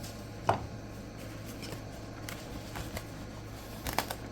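Handling noises: a knock about half a second in, faint scratching, and two sharp taps near the end, over a steady low hum.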